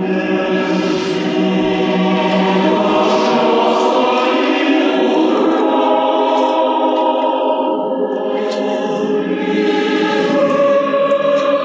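A choir singing in concert, holding sustained chords with several voice parts together.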